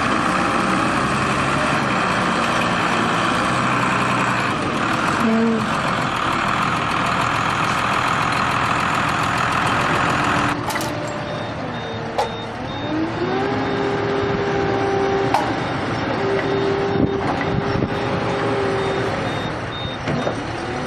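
Heavy vehicle engines running. After a sudden change about halfway, an engine rises and falls in pitch while a steady, evenly repeating high beep, like a reversing alarm, sounds over it.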